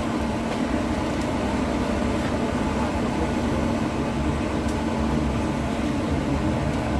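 LVS-86K articulated tram heard from inside the saloon while under way: a steady running rumble of wheels on rails and running gear, with a steady low hum throughout.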